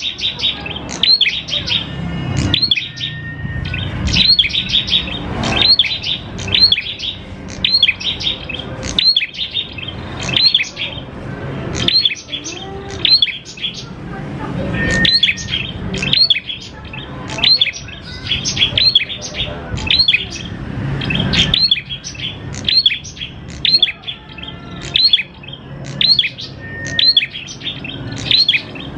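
Prenjak klawu songbird singing continuously, a long run of sharp, high chirps in quick bursts about once a second, with a faint low hum underneath.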